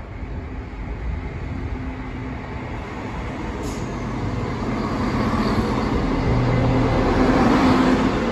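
An East Midlands Railway Class 170 Turbostar diesel multiple unit runs alongside the platform. Its diesel engine hum and wheel-on-rail rumble grow steadily louder as it draws level and peak near the end. There is a brief high click about three and a half seconds in.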